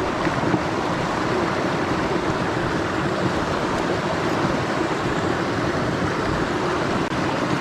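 Mountain stream rushing, a steady even sound of flowing water.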